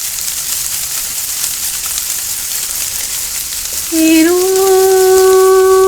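A steady hiss, then about four seconds in a sustained, held pitched tone begins, scooping up slightly in pitch before holding steady.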